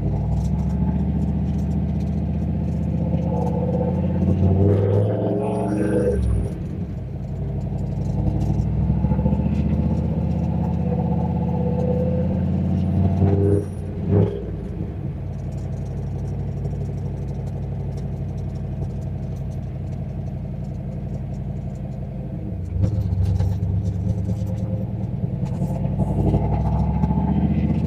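Turbocharged 351 Windsor V8 of a Fox-body Mustang running through a short, low exhaust on its turbo downpipe while the car is driven: a loud, steady engine note, with the revs rising and dropping about five seconds in and picking up again near the end.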